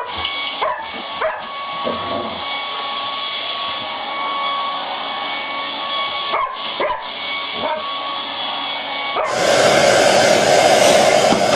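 Hair dryer running with a steady whine while a dog gives short yips and barks over it, a few near the start and a couple more later. About 9 s in the sound cuts to a louder, fuller rush of dryer air.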